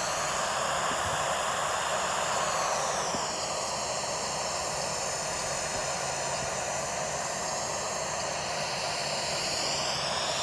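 Steady rushing noise picked up by the nest camera's outdoor microphone. Its high hiss slides down in pitch about three seconds in and climbs back up near the end.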